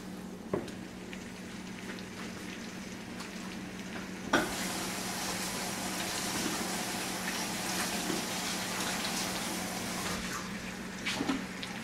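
Shrimp sizzling in hot olive oil in a frying pan: a steady hiss with light crackles. A knock comes about four seconds in, after which the sizzle is louder. A steady low hum runs underneath.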